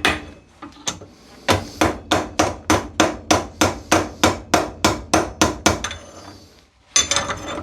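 Quick, repeated hammer blows on a rust-seized Record G-clamp, about four or five a second, struck to break the rust inside the screw thread. The blows start after a second or so of lighter taps. They stop near the end, giving way to a short rasping, scraping noise.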